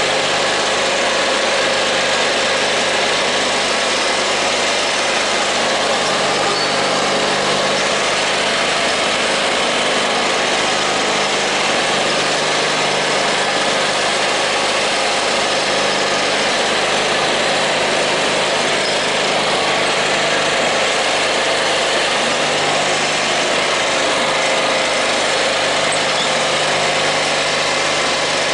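Small garden tractor's engine running steadily at an even speed. This is the old tractor with hydrostatic drive.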